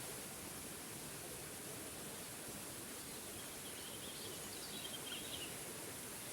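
Forest waterfall rushing steadily, with a songbird's short twittering chirps about halfway through.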